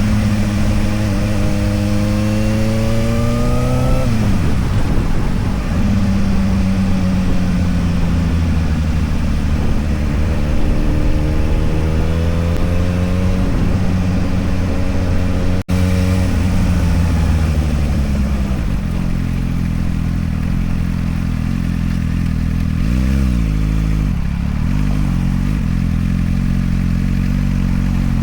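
Motorcycle engine accelerating. Its note climbs and then drops at a gear change about four seconds in, and climbs again over the next several seconds. After a brief dropout a little past halfway, it settles to a steadier, lower note.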